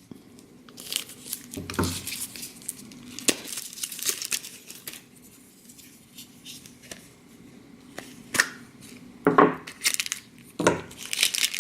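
Plastic blind bag being torn open and crinkled by hand, in scattered bursts of crackling with a quieter stretch in the middle and denser crinkling near the end.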